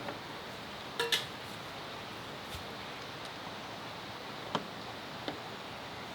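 A few light, sharp clicks and clinks of small hard objects being handled: a quick pair about a second in, then single clicks spaced out, over a steady background hiss.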